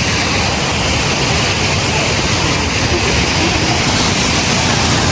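Rushing water of a jungle stream near a waterfall: a loud, steady hiss with no breaks.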